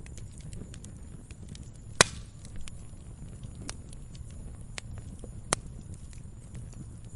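Log fire crackling in a fireplace: a low steady rumble of burning with scattered sharp crackles, and two loud pops, about two seconds in and again about five and a half seconds in.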